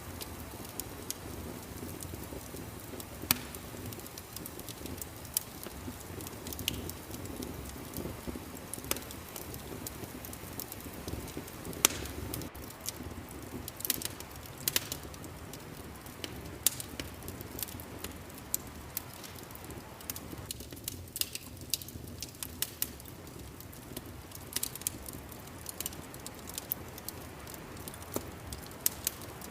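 Wood fire crackling in a fireplace: irregular sharp pops and snaps, a few of them loud, over a steady low rumble of the flames.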